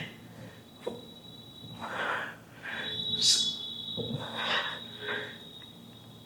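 A man breathing hard through a set of single-arm dumbbell lateral raises: a string of short, forceful exhalations and sniffs, about one every half-second to second, from the effort of each rep.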